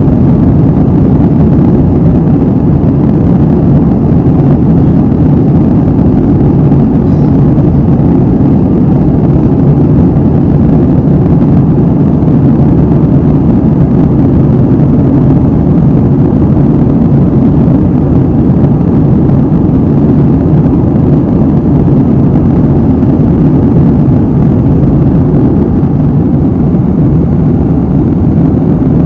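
Airliner cabin noise in cruise: a loud, steady, low rushing drone of engine and airflow, with no change throughout.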